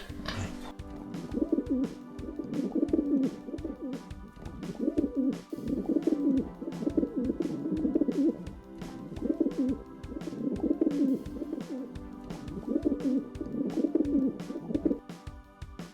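A bird cooing in low, warbling phrases that repeat every couple of seconds, over background music with a light beat.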